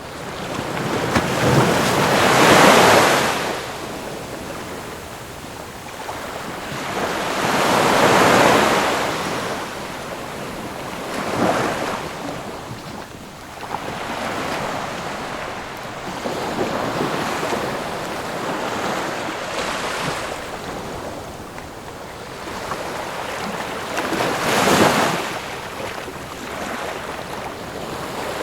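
Ocean waves breaking on a shore, the surf rising and falling in swells every few seconds, with the loudest breakers about two and eight seconds in and again near the end.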